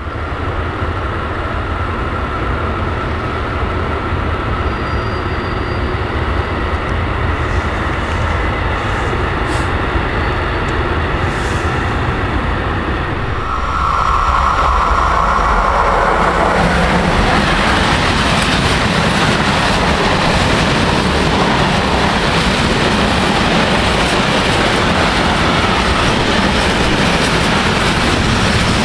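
Electric freight train approaching and passing close by. The noise grows louder as the locomotive arrives about halfway through, then gives way to a steady rumble and clatter of wheels on rails as the string of covered hopper wagons goes past.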